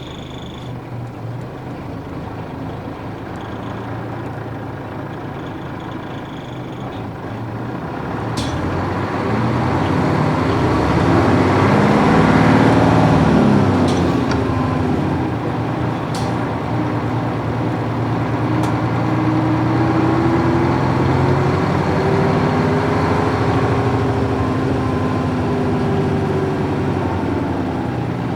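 Isuzu U-UA440 city bus's PF6 diesel engine heard from inside the bus as it pulls away. The engine note climbs, peaks and drops about 12 to 14 seconds in, then rises again and holds. A few sharp ticks come at intervals.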